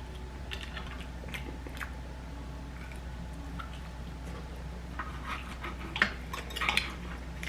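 Eating sounds close to the microphone: chewing with scattered short clicks and smacks, thicker and louder about five to seven seconds in, over a steady low hum.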